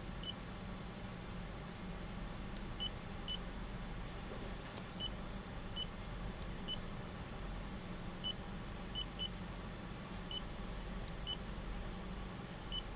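Nissan X-Trail engine idling steadily, under about a dozen short high electronic beeps at irregular intervals, typical of the scan tool's keys being pressed while scrolling through live data.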